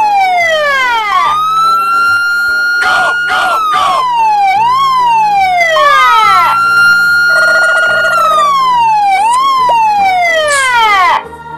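A siren wailing: a held high tone that sweeps down in a long fall, hops up briefly, falls again, then glides back up, the cycle repeating about every four to five seconds.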